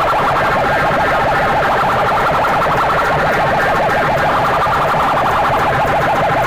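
Loud DJ sound-box stacks blasting a fast-pulsing, siren-like alarm effect, heavily overdriven.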